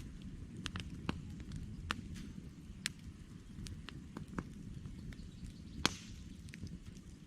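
Wood campfire crackling: irregular sharp snaps and pops over a low steady rumble, with one louder pop about six seconds in.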